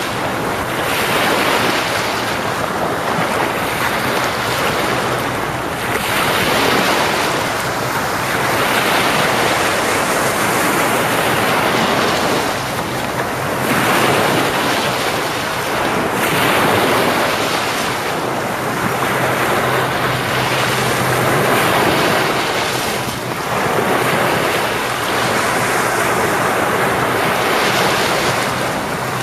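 Ocean waves breaking and washing on the shore: a steady rush of surf that swells and eases every few seconds.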